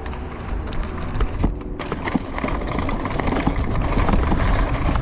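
Bicycle ride over rough ground: wind buffets the microphone with a steady low rumble, over a patter of small clicks and knocks from the bike rattling over bumps. It grows louder about two seconds in.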